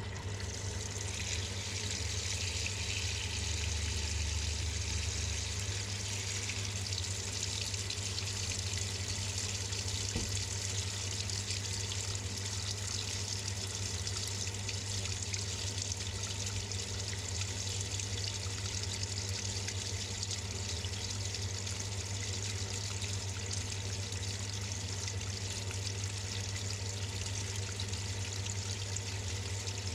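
Water pouring into the drum of a Samsung 6.5 kg top-load washing machine as it fills at the start of the wash cycle, heard from inside the drum. A steady low hum runs beneath the water throughout.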